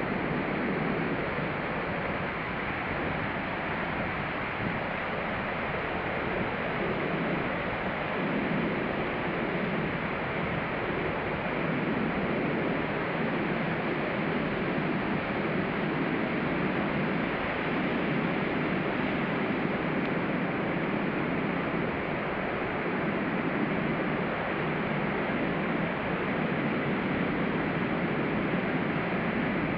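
Ocean surf breaking on a sand beach, a steady wash of waves that swells and eases slowly.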